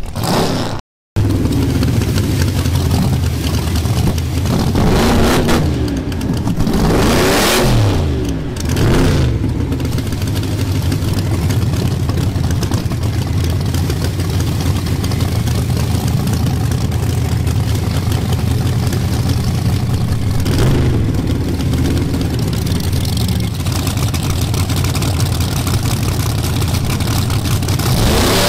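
Car engines running at a steady drone, revving up and down several times between about five and ten seconds in. The sound cuts out briefly about a second in.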